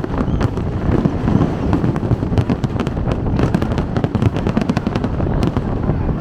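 Fireworks going off continuously: a dense run of sharp pops and crackles over a deep rumble of bursts.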